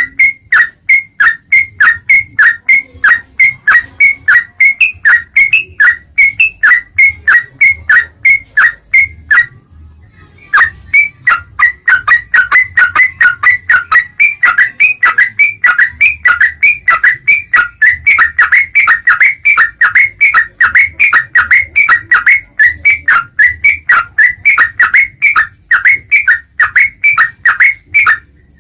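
Yellow-vented bulbul (trucukan) calling in a rapid, unbroken string of short, down-slurred whistled notes, about three a second, with a brief pause about ten seconds in.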